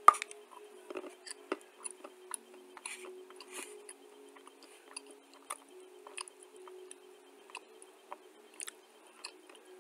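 Dry clay being chewed with the mouth: irregular crunches and crackles, the loudest one right at the start as a bite is taken.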